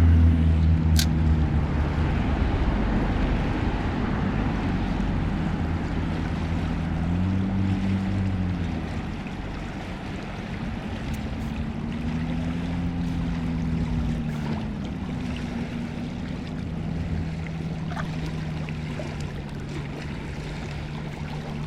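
River water rushing over a riffle, with a low hum underneath that slowly rises and falls in pitch and is loudest in the first few seconds.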